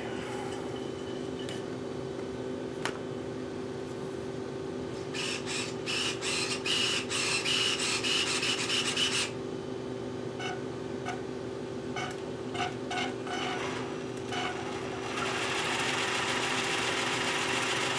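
Rubbing and scraping of parts being handled, in two stretches a few seconds long with scattered clicks, over a steady low hum.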